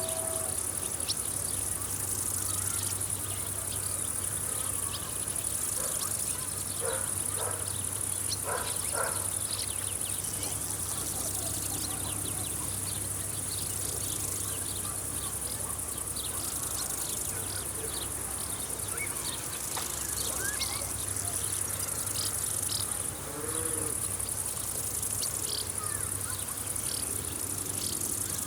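Field insects chirping in a steady, high-pitched chorus, with a low steady hum underneath and a few short bird calls scattered through, most of them about a quarter of the way in.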